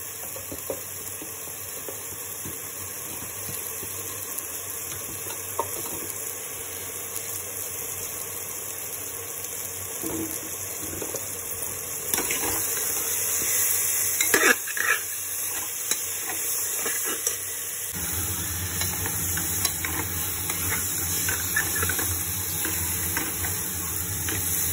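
Onions, potatoes and spice paste sizzling steadily as they fry in ghee in a metal pot, while a slotted steel spoon stirs and scrapes against the pot, louder around the middle. A low steady hum joins in about three-quarters of the way through.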